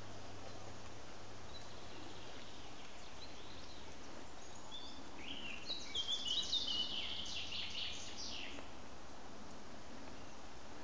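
A songbird sings one short phrase of rapid high notes over a steady background hiss, with a few fainter notes before it.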